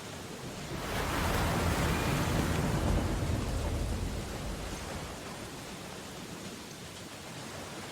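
Rain pattering steadily on window glass in an ocean storm. About a second in, a deep rumbling swell rises over the rain and fades away over the next few seconds.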